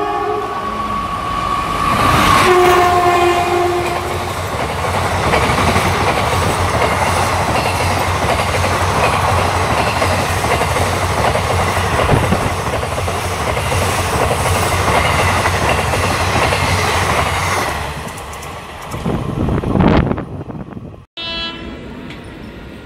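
A passing Indian Railways express train: a locomotive horn sounds as the WAP-4 electric locomotive approaches, then lower horn notes as it reaches the platform. After that come the long loud rush and rhythmic clickety-clack of the coaches running through at speed, fading off near the end.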